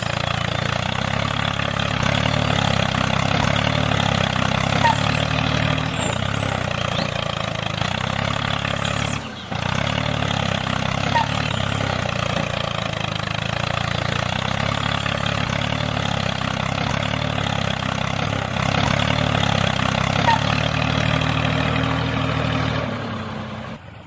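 A motor running steadily with an even hum, dropping out briefly about nine seconds in and fading just before the end.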